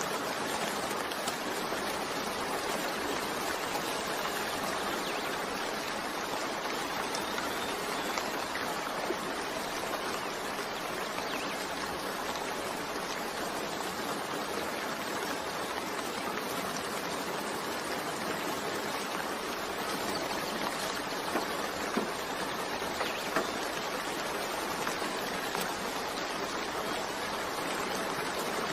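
Steady gentle rain, an even hiss with a few distinct drops ticking here and there.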